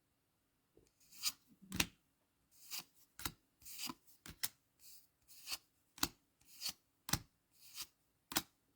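Trading cards from a just-opened booster pack being slid one after another through the hands. There are about a dozen short cardboard swishes, roughly two a second.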